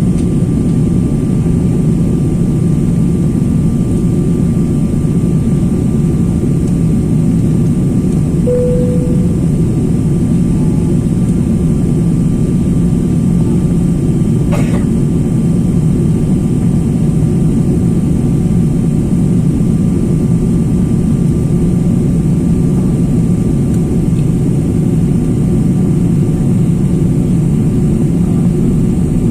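Steady low rumble of a jet airliner's engines and airflow heard inside the passenger cabin, with a brief single tone about eight seconds in.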